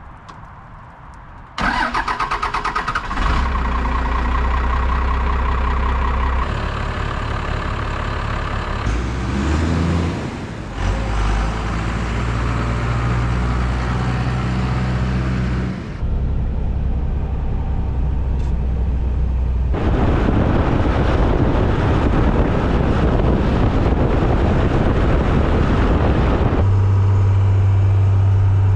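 Gasoline pressure washer engine starting abruptly about a second and a half in, then running steadily, its pitch and load shifting several times.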